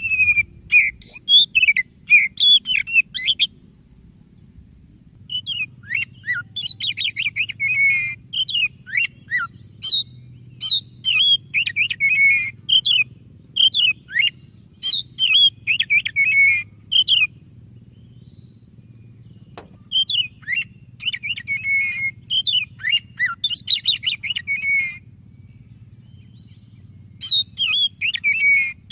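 White-breasted Oriental magpie-robin (kacer dada putih) singing: long phrases of quick, varied whistles and chirps, broken by pauses of about two seconds, over a faint steady low hum.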